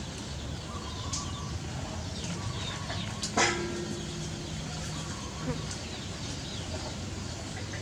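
Small animal calls: many short, high chirps and squeaks, with one louder call a little over three seconds in.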